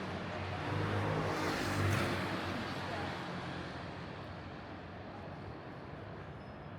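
A motor vehicle passing, loudest about two seconds in and then fading away, over a steady city hum.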